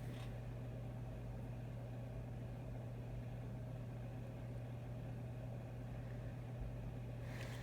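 A steady low hum with faint hiss beneath it, with a faint brief rustle near the end.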